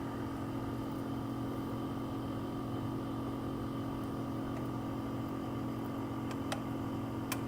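Steady hum of the screen separator's vacuum pump holding the LCD down on the heated plate, with a few faint ticks near the end as the metal wire works through the glass adhesive.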